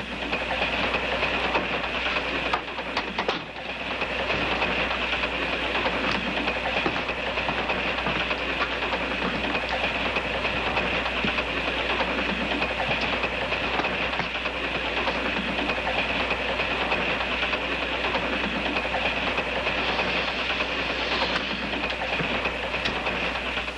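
Passenger train running, heard from inside a sleeping car as a steady, even rumbling noise, with a brief dip in loudness about three seconds in.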